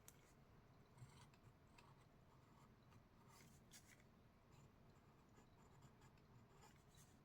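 Faint scratching of a drawing tool on paper, short strokes at irregular intervals over a low room hum.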